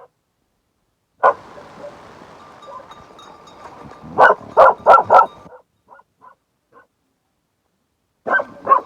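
A dog barking in separate short barks: one bark, then about three seconds later a quick run of four barks, a few faint yips, and two more barks near the end.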